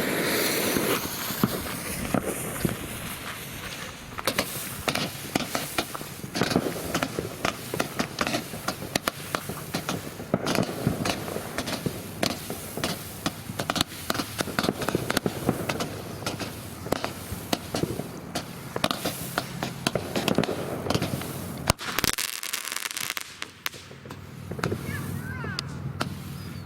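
A Keystone Fireworks 96-shot color pearl cake firing: a rapid, dense stream of launch pops, many per second, that cuts off about 22 seconds in.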